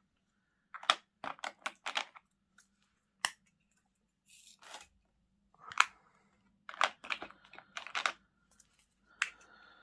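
Small plastic bags and containers of diamond-painting drills being handled: scattered sharp clicks and crinkly rustles, some coming in quick clusters.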